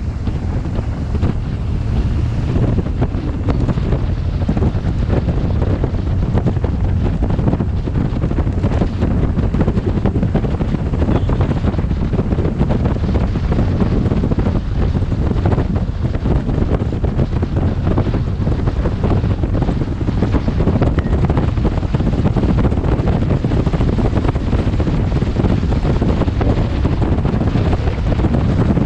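Steady, heavy wind buffeting on a helmet-mounted camera's microphone on a moving motorcycle, a dense low rumble with no breaks.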